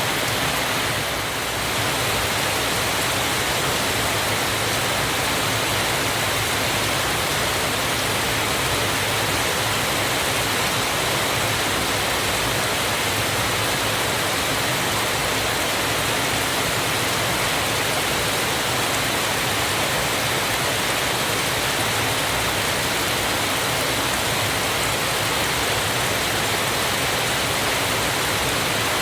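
Waterfall: a steady, dense rush of falling water, unbroken, with a slight dip in level about a second in.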